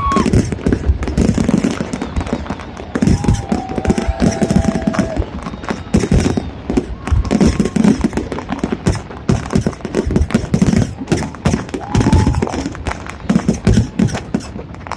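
Fireworks going off: a rapid, irregular run of bangs and crackles.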